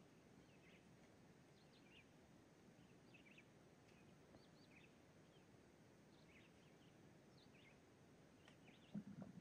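Near silence with faint, short, high bird chirps about twice a second, and a brief low thump near the end.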